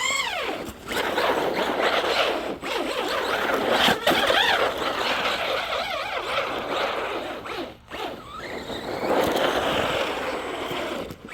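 Electric RC truck driven hard through snow: its motor whines up and down in pitch as the throttle is worked, over a constant rushing noise of tires churning snow.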